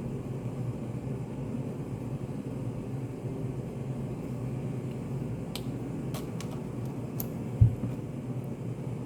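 Study café room tone: a steady low ventilation hum. A few faint light clicks come a little past halfway, and a single short low thump follows about three-quarters of the way in, the loudest sound.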